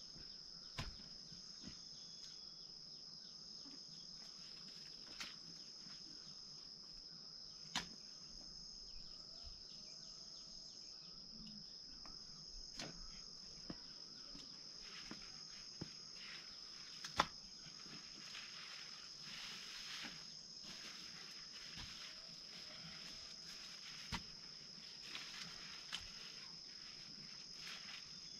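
Insects, crickets or similar, chirring in one steady high-pitched drone, with scattered sharp knocks now and then; the loudest knock comes a little past the middle.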